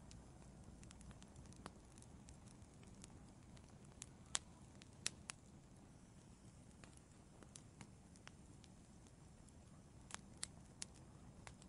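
Wood fire in an outdoor fireplace crackling: scattered sharp pops, a dozen or so, the loudest about four seconds in, over a faint low rumble.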